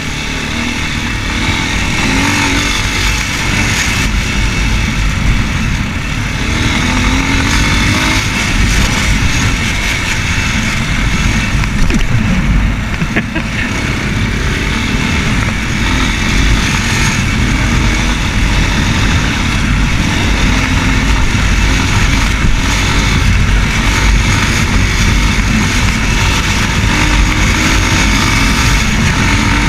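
Racer Panther 300 enduro motorcycle's single-cylinder engine running under way, its note rising and falling with the throttle, over a heavy rushing noise of wind on the microphone.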